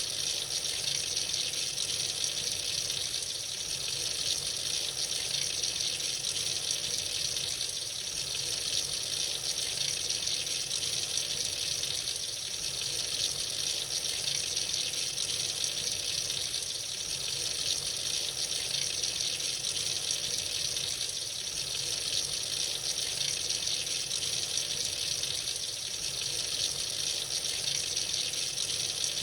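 Tap running freely into a sink, a steady unbroken hiss of falling water.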